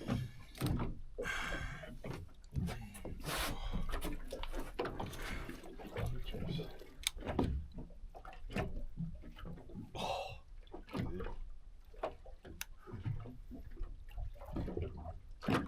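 Irregular knocks and clatter on a small fishing boat, with bits of water splashing and dripping.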